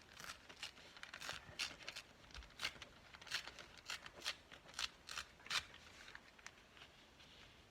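Craft paper being handled and cut: a string of short, crisp snips and crackles, about two a second, that stop near the end.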